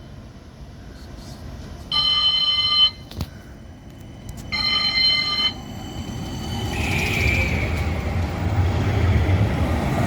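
A tram sounds two ringing bell tones about two seconds apart, each lasting about a second. The tram then pulls away, its running noise building steadily.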